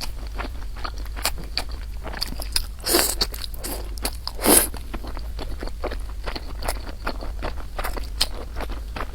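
Close-up mukbang eating: chewing and biting with many small crunchy clicks, and two louder bursts about three and four and a half seconds in.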